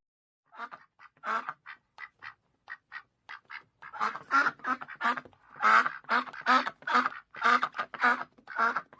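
Ducks quacking: a few scattered short quacks, then from about four seconds in a quick, continuous run of loud quacks.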